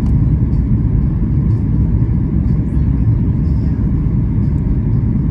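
Steady low rumble of a Boeing 737 MAX 8's engines and airflow heard inside the passenger cabin, even throughout with faint light ticks above it.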